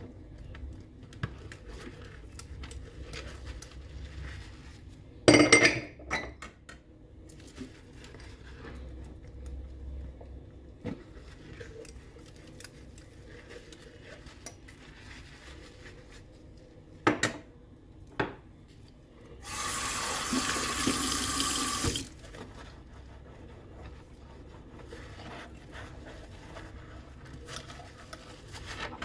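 Hand dishwashing at a sink: dishes and utensils clinking and knocking, with a few louder knocks. About two-thirds of the way through, the tap runs for about two seconds.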